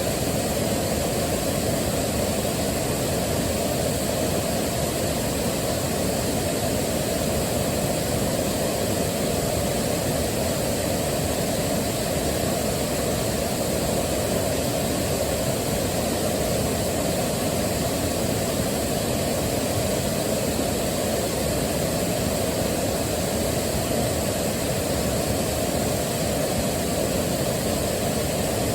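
Waterfall: a steady, deep rush of falling water, its sound weighted to the low end with no change or separate splashes.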